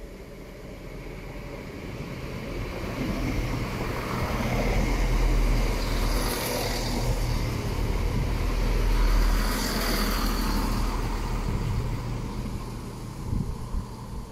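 Class 170 Turbostar diesel multiple unit passing close by along the platform. Its rumble of engines and wheels builds as it approaches and is loudest about five and nine seconds in, with a brief high-pitched sound twice, then fades as the train moves on.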